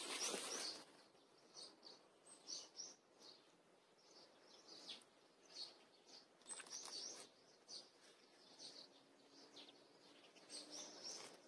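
Faint, scattered bird chirps, with a short rustling noise right at the start.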